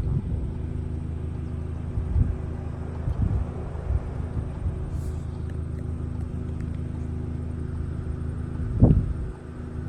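Steady low road and engine noise inside a moving car's cabin, with a brief louder thump near the end.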